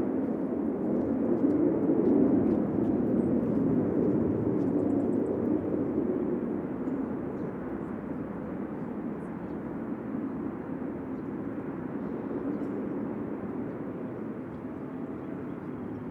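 Blue Angels aircraft passing overhead: a low, steady engine rumble that is loudest at first and slowly fades as the aircraft moves away.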